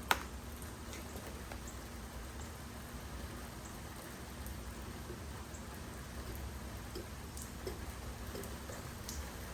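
Steady rain, a constant patter with scattered drips, and a single sharp click just after the start.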